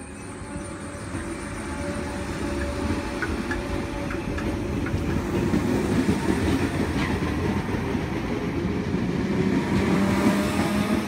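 Great Northern electric multiple unit approaching and running along the platform, its wheel-on-rail rumble growing steadily louder, with a faint electric whine above it.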